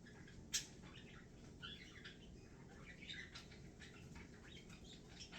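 Small pet bird chirping softly in short, scattered notes, with one sharp click about half a second in.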